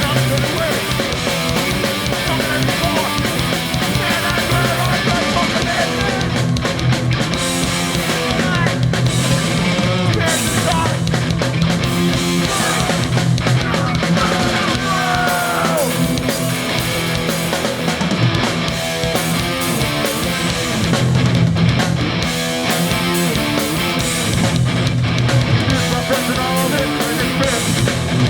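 Hardcore punk band playing live: distorted electric guitars, bass and drum kit, loud and continuous.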